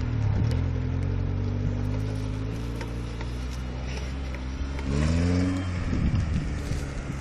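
Suzuki Samurai 4x4's engine pulling steadily at low revs off-road. About five seconds in it revs up briefly, rising in pitch, then eases off again.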